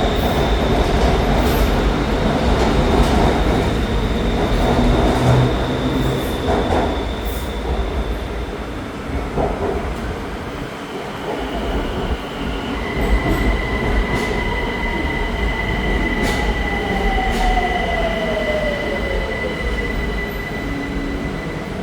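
Train pulling into a station: loud running noise of the cars with high, steady squealing tones, and a whine that slides steadily lower in pitch over the second half as the train slows.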